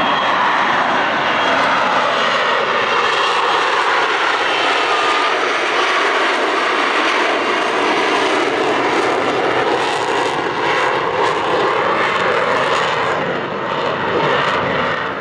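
Aircraft engine noise from an airshow display aircraft flying overhead: a loud, continuous rush with slow shifts in pitch as it moves.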